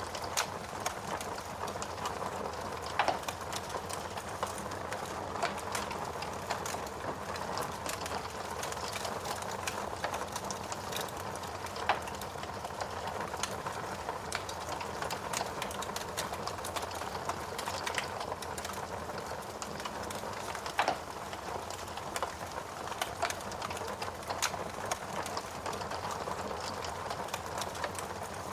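Steady rain with a wood fire crackling over it: many small irregular snaps and a few louder pops spread through.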